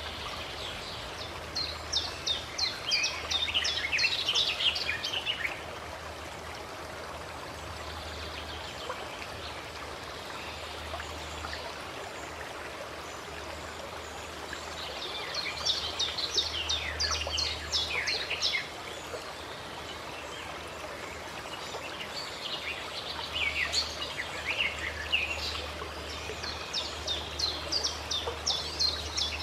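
A stream running steadily, with birds singing in bursts of rapid high chirps: a few seconds near the start, again around the middle, and through the last several seconds.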